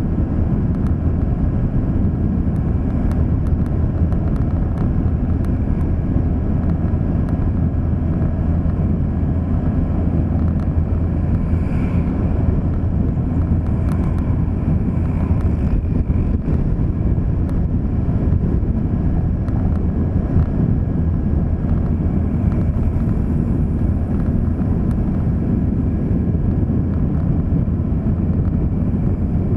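Steady low rumble of a vehicle driving along a road: engine and tyre noise running evenly throughout.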